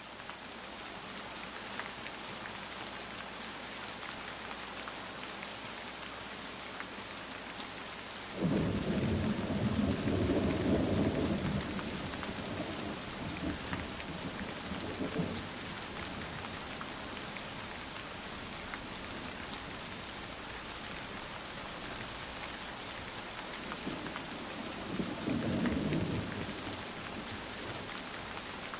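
Steady heavy rain falling, with rolls of thunder: a sudden low rumble about a third of the way in that lasts a few seconds, and another shorter roll near the end.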